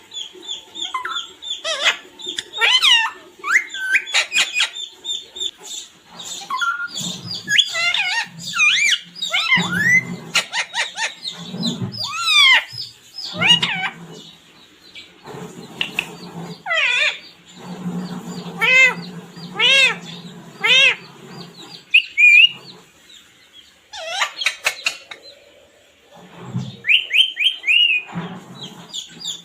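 Parrot chirping and screeching: a long run of short calls that swoop up and down in pitch, some coming in quick repeated series, with lower throaty sounds in between.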